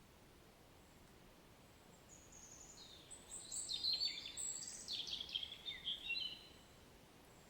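A songbird singing one long, rapid, varied phrase of high notes, starting about two seconds in and stopping about six and a half seconds in, over a faint, steady hiss of rain.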